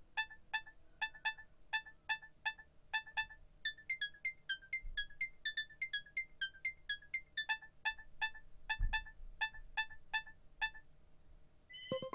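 Nokia 3590 mobile phone ringtone: a quick melody of short, high, bell-like notes, about three a second, that stops about a second before the end. Just before the end, the next ringtone begins.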